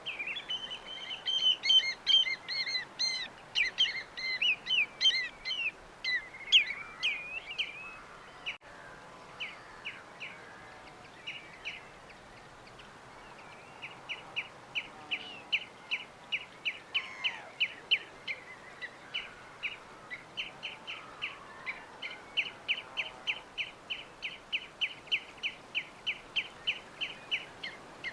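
Birds chirping. A busy tangle of overlapping high chirps fills the first several seconds, then after a brief lull a steady run of short repeated chirps, about three a second, carries on to the end.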